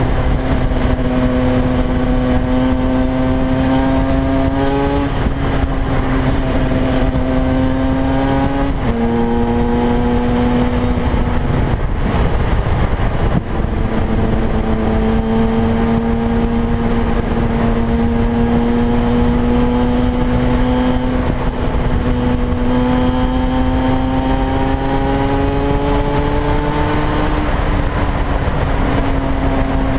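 KTM 125 EXC's two-stroke single-cylinder engine running under way. Its pitch climbs slowly, drops back a few times, and breaks off briefly about twelve seconds in, over a steady rush of noise.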